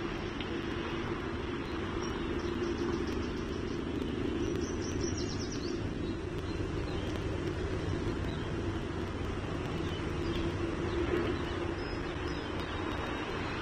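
Steady outdoor background rumble with a low hum, typical of distant traffic and industrial noise around a nest camera. A small bird gives short, rapid high chirping trills a few times over it, most clearly about five seconds in.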